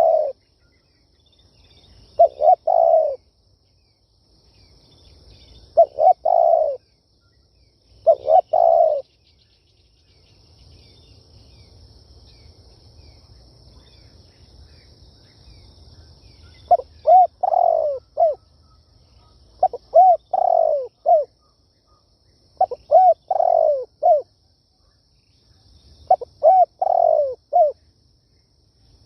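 Spotted dove cooing: repeated short phrases of a few deep notes, each phrase about a second long, with a pause of about seven seconds midway. Its territorial song is used as a lure call for trapping wild doves.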